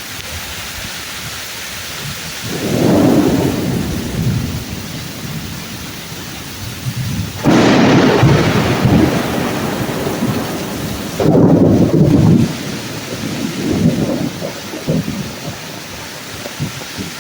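Thunderstorm: steady heavy rain on the trees with repeated rolls of thunder. There is a rumble about two and a half seconds in, a sudden loud clap about halfway through, another loud clap a few seconds later, and smaller rumbles near the end.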